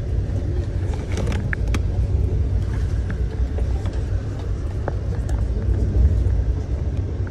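Amtrak passenger coach rolling along the track, heard from inside the car: a steady low rumble with a few faint clicks and squeaks.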